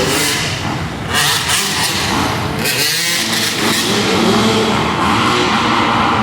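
Pit bike engines revving on a motocross track, their pitch rising and falling as the riders work the throttle.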